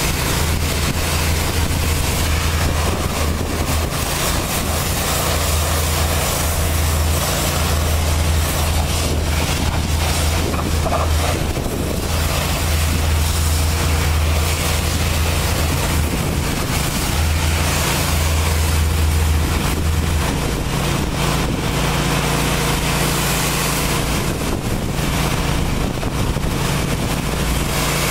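Automatic truck wash running: high-pressure water spraying with a steady hiss, over a low machine hum that stops about twenty seconds in.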